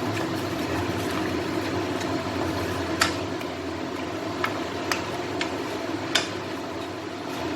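Metal spatula or spoon knocking sharply against a pan, five separate clicks, while chutney paste is stirred in, over a steady low hum.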